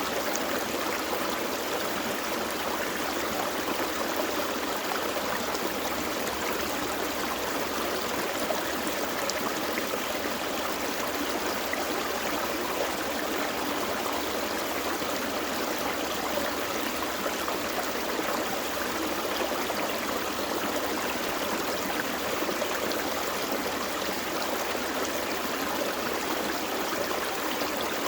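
Gentle forest creek flowing steadily over rocks, an even rushing and babbling of water.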